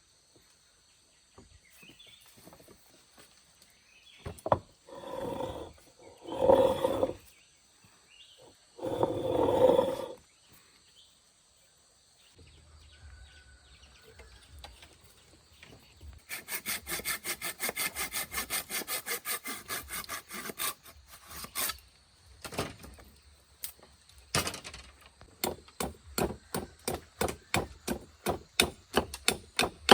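Wood being sawn and worked by hand: a few loud rasping strokes, then a run of fast, even strokes, then a quickening series of sharp knocks near the end.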